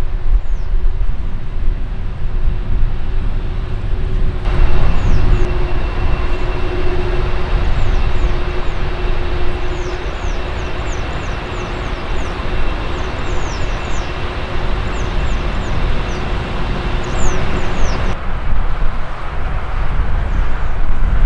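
Jet airliner engines rumbling, with a steady engine tone under the noise. From about four seconds in until near the end, a brighter hiss joins it, with a thin high whine and a run of short, falling high chirps.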